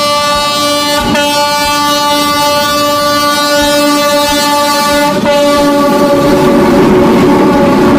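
Train horn held in one long steady blast for about five seconds, then the rumbling noise of the train running.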